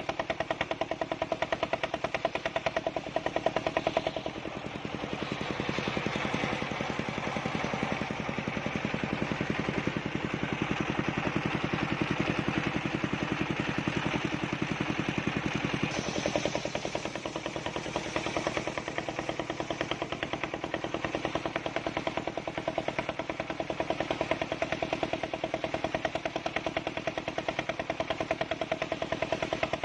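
Engine-driven circular saw rig running, the engine giving a rapid, even knocking. From about four seconds to about sixteen seconds the sound dulls slightly and a hiss rises over it, then it changes back.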